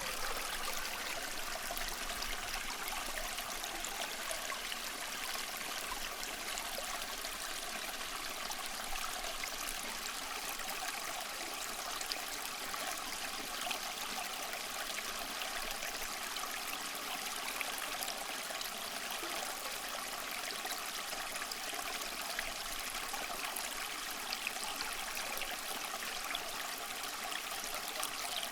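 Steady rush of moving water: an even hiss with no separate swells or breaks.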